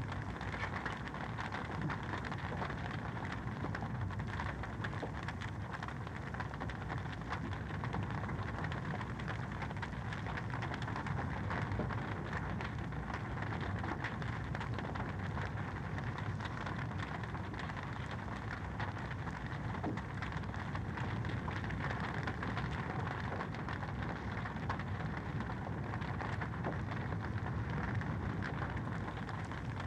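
Fireplace fire crackling steadily: a continuous dense patter of small pops over a soft rushing noise.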